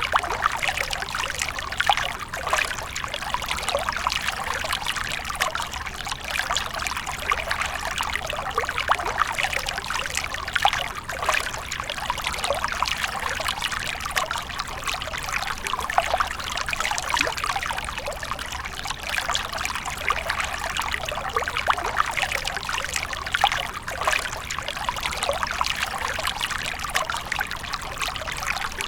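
Water fountain: a steady stream of water pouring and splashing into a pool, with a continuous trickling texture.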